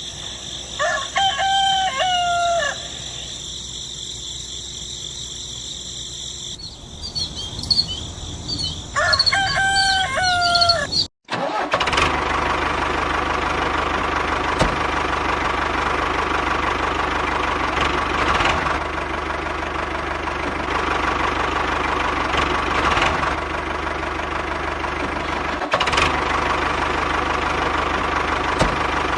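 A rooster crows twice. Then, after a sudden cut, a steady mechanical running sound like an engine idling carries on, with a few sharp clicks.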